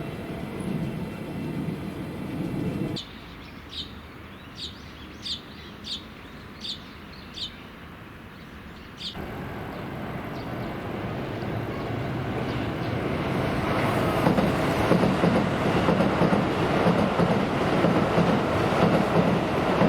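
Keisei Main Line electric trains at a level crossing. A train runs past, then the sound cuts to a quieter stretch with a level-crossing warning bell striking about every 0.7 seconds. A further cut brings an approaching train whose rumble and wheel noise builds to a loud pass over the rails about five seconds later.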